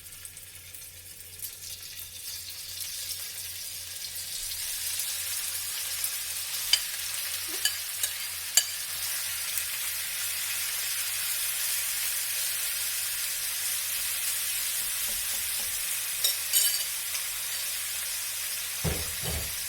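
Cubed chicken breast frying in olive oil in a hot wok: a steady sizzle that swells over the first few seconds and then holds, with a few sharp clicks and a low thump near the end.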